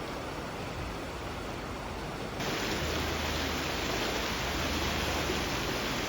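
A steady rushing noise with no distinct events, which becomes brighter and a little louder suddenly about two and a half seconds in.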